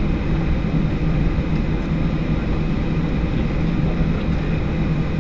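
Jet airliner's engines running with a steady, loud rumble and rushing noise, heard from inside the cabin during takeoff.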